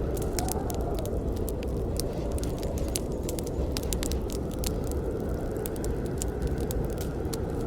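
Wood fire burning: frequent sharp irregular crackles and pops over a steady low rumble of the flames.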